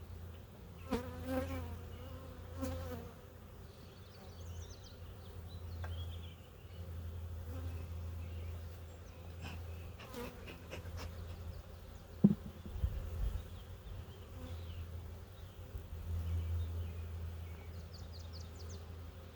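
Honeybees buzzing around an open hive during an inspection, with single bees flying close past the microphone now and then, their buzz rising and falling. A short sharp knock about twelve seconds in.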